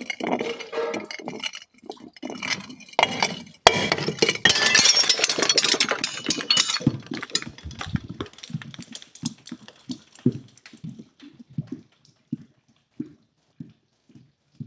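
Glass being crushed: irregular cracks and crunches, then a sudden loud crash about four seconds in. Dense crackling of breaking glass follows for a few seconds and thins out to scattered small clicks of shards.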